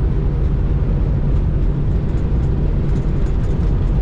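Steady low drone of a semi-truck's diesel engine and road noise, heard inside the cab while cruising down the highway.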